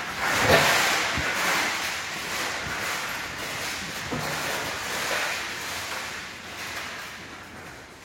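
Rushing wind-driven noise, like wind and surf, surging loudest about half a second in and easing off slowly toward the end.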